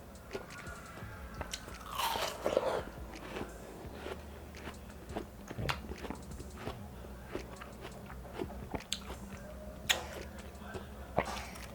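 Close-up biting and chewing of chilled seedless watermelon: juicy crunches and wet mouth clicks, with a louder bite about two seconds in and another near the end.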